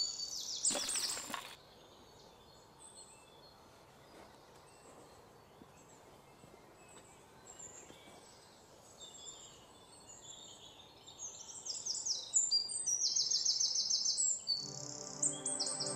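Songbirds chirping in rapid repeated trills, loud at first, then faint, then loud again near the end. A brief rush of noise comes about a second in, and soft music with held notes begins near the end.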